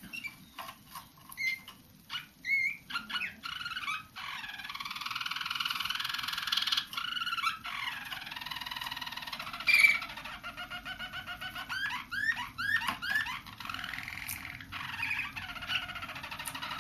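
Young Roller canaries singing: a few short chirps and call notes, then from about four seconds in a continuous rolling song with trills and quick upward-slurred notes. These are new song passages (tours) that the young birds are still forming.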